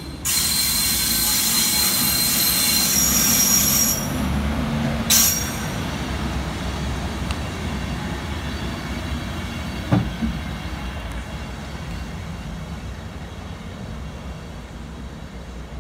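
A passing train with its wheels squealing against the rails: a loud high squeal and hiss for the first four seconds and another short burst about five seconds in, then a fading rumble with a single knock about ten seconds in.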